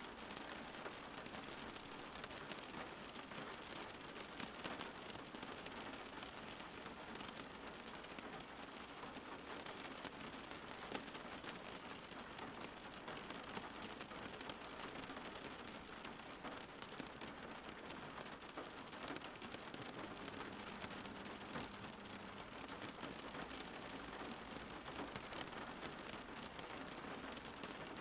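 Steady rain falling, an even hiss of many small drops on a surface without a break.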